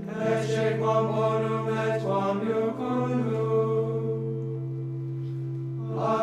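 Male voices singing Latin plainchant during the anointing rite of a bishop's consecration, with a low note held steadily underneath.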